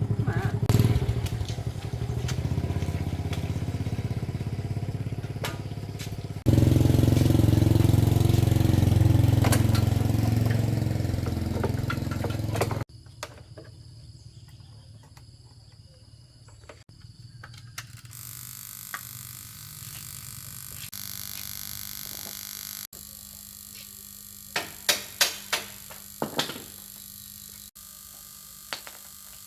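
Small motorcycle engine running steadily, louder from about six seconds in, then cut off abruptly near the middle; afterwards a quieter background with a few sharp clicks and taps.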